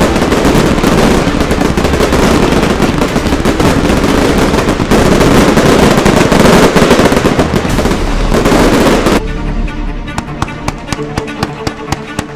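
Dense, continuous barrage of exploding fireworks and firecrackers. About nine seconds in it cuts abruptly to music with a regular plucked beat.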